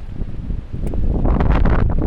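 Wind gusting across the microphone: a loud, uneven low rumble that swells about a second in.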